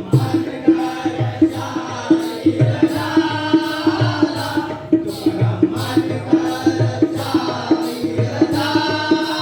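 Live Jakhadi folk song: voices singing over a steady, quick drum beat of about two to three strokes a second, with small percussion.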